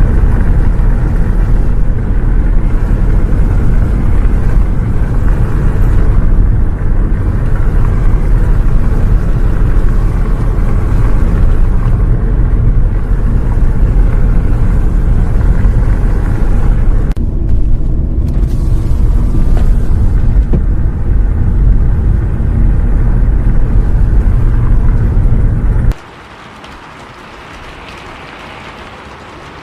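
Loud, deep, steady rumble of a bus on the road, heard from inside. Near the end it cuts off abruptly, leaving a much quieter even hiss of rain.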